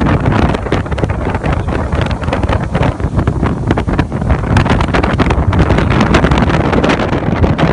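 1988 Bayliner Ciera motorboat under way, its GM 5.7 V8 engine running steadily with heavy wind buffeting on the microphone.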